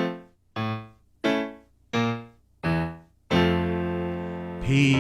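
Piano-style keyboard playing the introduction to a children's song: six short chords struck about every two-thirds of a second, each dying away, then a longer chord held and left to ring.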